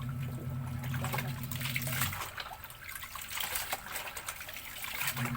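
Water splashing and trickling as laundry is washed by hand, under a steady low machine hum that stops about two seconds in and starts again near the end.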